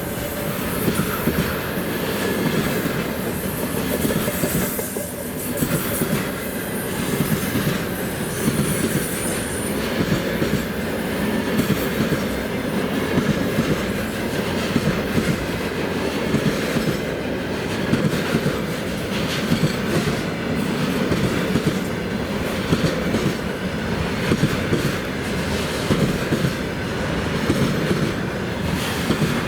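Railway cars rolling past at speed, a steady rumble of wheels on rail with a continual clickety-clack of wheelsets passing over rail joints.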